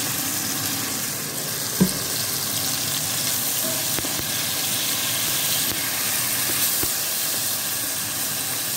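Chicken pieces sizzling steadily in hot oil and soy sauce in a stainless steel pot. A sharp knock comes about two seconds in, with a few lighter clicks after it.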